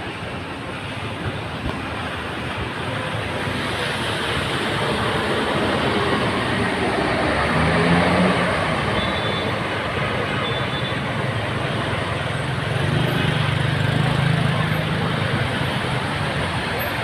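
Steady rushing noise of typhoon rain and road traffic on a flooded street, with a vehicle engine passing about eight seconds in and again around thirteen seconds.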